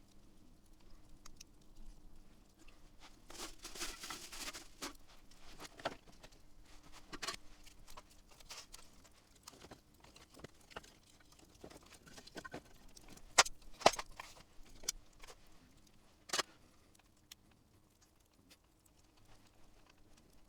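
Wood campfire crackling, with scattered small pops, a brief spell of denser crackle early on, and three louder sharp snaps about two-thirds through.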